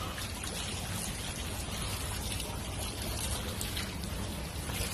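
Water running steadily from a garden hose and splashing.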